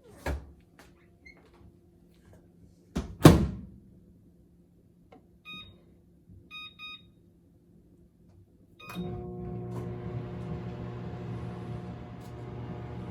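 Microwave oven being started: a loud thud of the door shutting, a few short keypad beeps, then about nine seconds in the oven starts running with a steady hum and fan noise.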